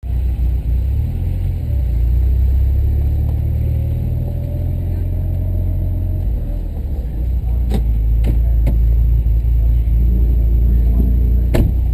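Car engine running at low speed, heard from inside the cabin as a steady low rumble, with a few sharp clicks in the second half.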